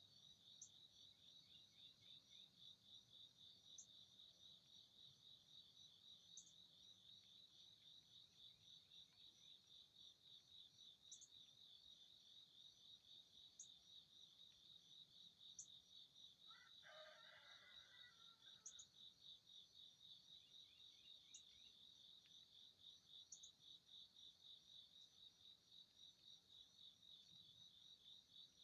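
Faint, steady high-pitched trill of insects pulsing rapidly and without a break. About halfway through, a single brief bird call sounds lower in pitch.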